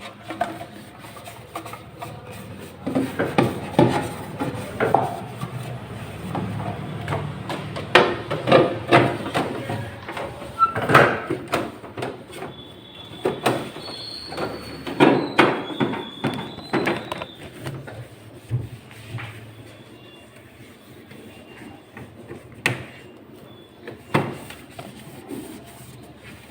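Cleaning inside a switched-off refrigerator: irregular knocks and clicks of plastic shelves and fittings being handled and wiped with a wet cloth, with a few brief high squeaks about halfway through.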